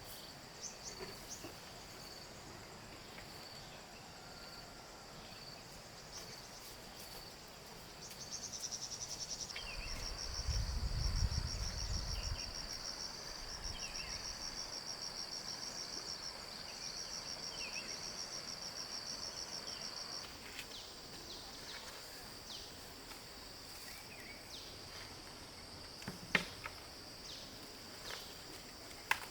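Insects trilling in a steady, high, even tone. A second, pulsing insect trill joins for about twelve seconds in the middle. There is a brief low rumble about ten seconds in and a few sharp clicks near the end.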